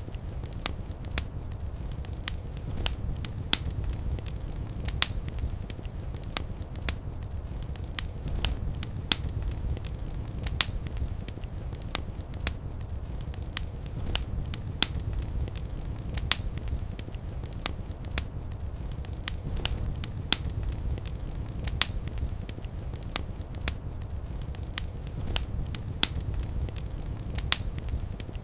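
Fireplace fire burning steadily: a low rumble of flame with irregular crackles and pops, several a second, a few standing out louder.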